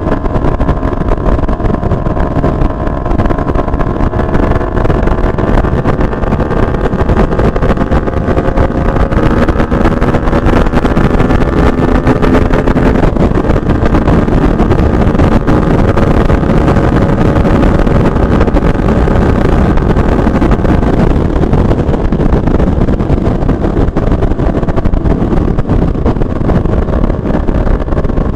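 Benelli TNT 600i inline-four engine breathing through a Two Brothers aftermarket exhaust canister, running under way with its note drifting slowly up and down in pitch, over heavy wind noise on the microphone.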